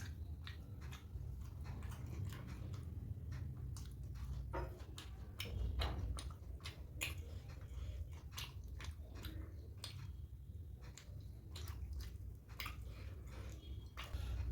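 A person chewing poori with curry close to the microphone: many irregular, sharp mouth clicks and smacks over a steady low hum.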